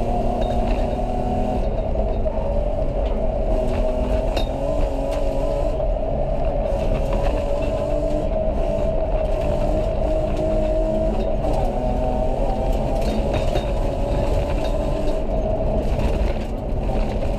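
BMW rally car's engine running hard at high revs, heard from inside the cabin: its pitch holds fairly steady with small wavers and dips, over heavy road and tyre noise, with a few sharp clicks.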